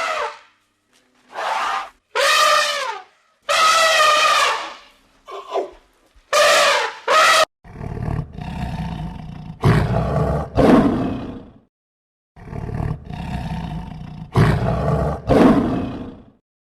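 A run of short pitched animal calls, then a big cat roaring in two long bouts, each swelling to two louder peaks.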